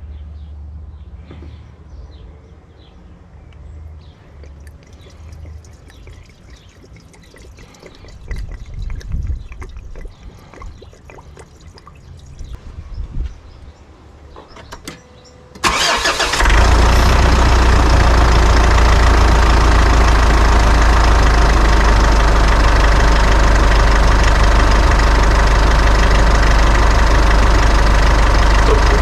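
Faint scattered knocks and handling noises. About halfway through, a Mitsubishi 4D56 turbodiesel engine starts suddenly and settles into a steady, loud idle.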